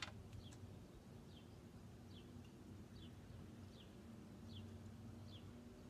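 Faint bird calls: one bird repeating a short, high, falling chirp about once every second, over a low steady hum, with a sharp click right at the start.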